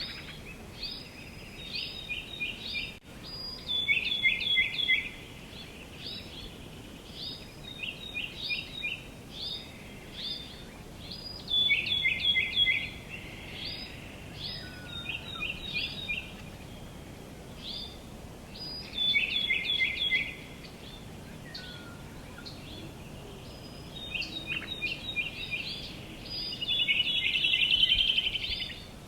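Songbirds chirping in short repeated phrases of a few quick, high notes, with a faster trill near the end, over a faint steady background hiss.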